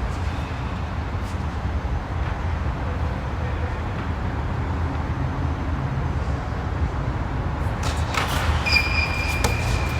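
A steady low rumble. Near the end come a few sharp knocks and a brief, steady high-pitched tone.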